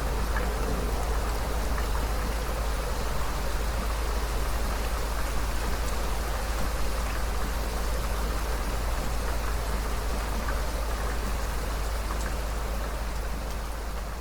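Heavy rain falling steadily: a dense, even hiss of drops with a constant deep rumble underneath, easing slightly at the very end.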